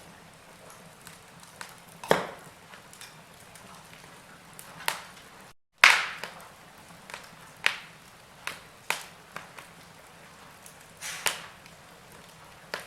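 Wood fire burning: irregular sharp crackles and pops over a low hiss, with two louder pops about 2 and 6 seconds in. The sound cuts out completely for a split second just before the second loud pop.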